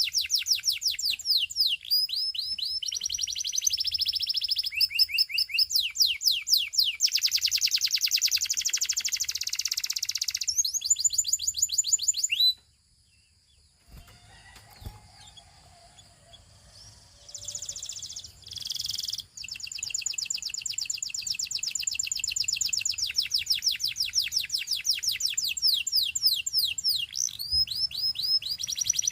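Russian canary singing fast trills and rolls of rapidly repeated high sweeping notes, changing from one tour to the next. The song breaks off about twelve seconds in, with a few short notes in the gap, and resumes about seven seconds later.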